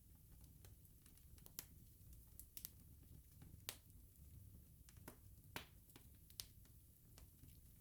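Wood bonfire crackling faintly: irregular sharp pops and snaps over a low steady rumble.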